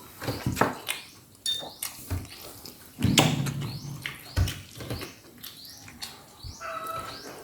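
Close-up eating sounds of roast chicken being eaten: irregular wet smacks, clicks and chewing noises. A faint high chirp repeats about twice a second behind them.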